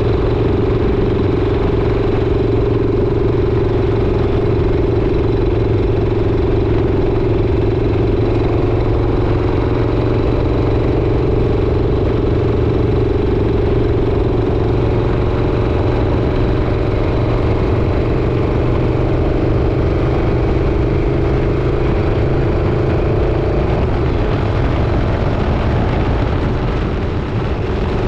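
Motorcycle engine running steadily while riding, over a constant low rumble. Its pitch sinks slowly through the second half as the bike eases off.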